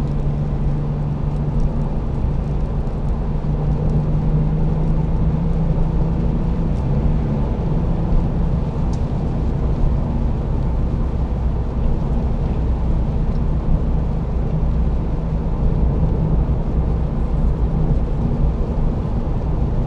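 Porsche 911 Carrera 2's flat-six engine running steadily under a low rumble of tyre and road noise while driving; the engine note shifts about seven seconds in.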